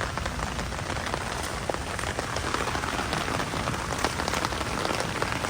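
Heavy rain falling: a steady hiss, thick with the ticks of individual drops.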